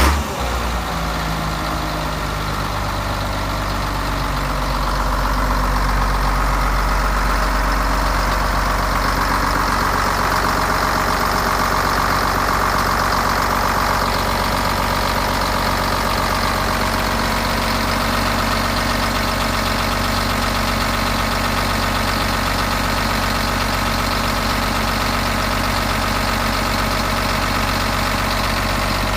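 Caterpillar 140G motor grader's direct-injection diesel engine idling steadily, picking up a little about five seconds in and then holding even.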